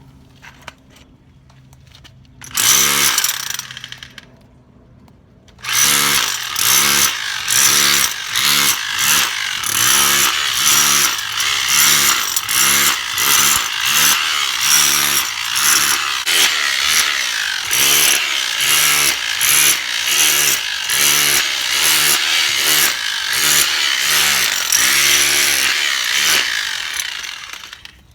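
Power tool raking old mortar out of the joints of a stone foundation: a short burst, then long run of rapid pulses, about two a second, with the motor speed rising and falling in each, fading out near the end.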